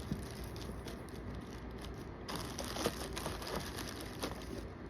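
Plastic packaging rustling and crinkling as kit parts are unwrapped and handled, with scattered small clicks and one sharper click a little under three seconds in.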